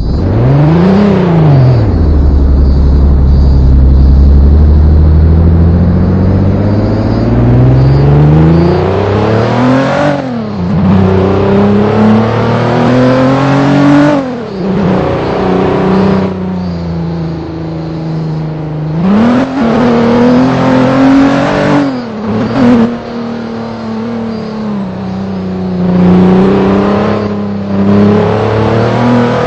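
Vehicle engine under way, revving up and dropping back again and again as it changes speed, with steadier stretches in between.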